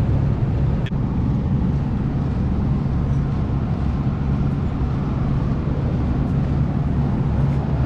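Steady low mechanical hum of air-conditioning equipment running, with a single short click about a second in.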